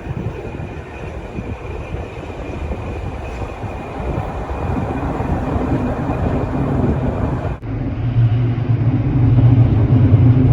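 Train running on the rails with a rough rumble that slowly grows louder. About three-quarters of the way in, the sound cuts abruptly to a louder, steady humming drone.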